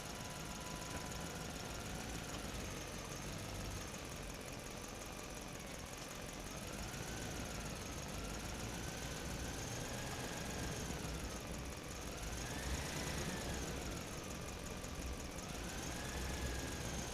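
A motor running steadily, its whine wavering up and down in pitch and rising to its highest about thirteen seconds in.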